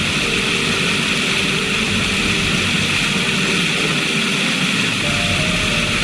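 River water rushing steadily, an even loud hiss of flowing water.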